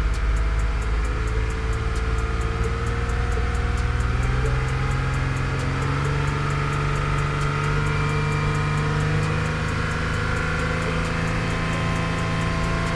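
Ford Edge's 2.7-litre twin-turbo EcoBoost V6 held at a steady high idle of about 3500 rpm, its pitch creeping up a little in the first few seconds and then holding. The revs are held to push air out of the freshly refilled cooling system after a thermostat swap, and air bubbles are heard in the coolant.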